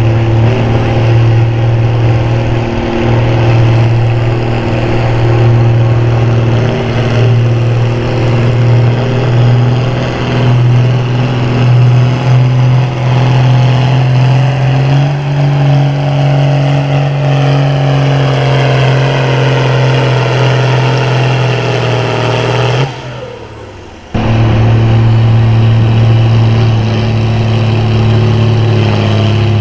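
Farm-class pulling tractor's diesel engine running hard at high, steady revs under load, its pitch stepping up about halfway through. Near the end the sound falls away with a quickly dropping pitch, then the loud engine cuts back in all at once.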